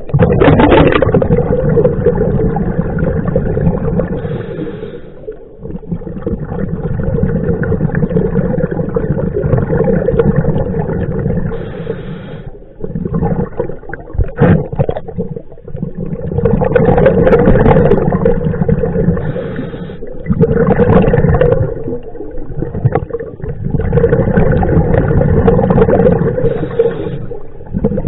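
Scuba diver's breathing heard underwater through a regulator: gurgling rushes of exhaled bubbles swelling and fading every four to six seconds, with short lulls between breaths.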